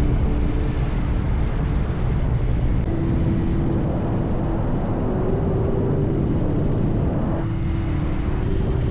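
Steady vehicle noise, a continuous low rumble with a hiss over it.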